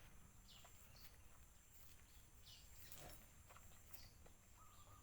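Near silence: faint outdoor background with scattered short, high bird chirps and a few faint clicks.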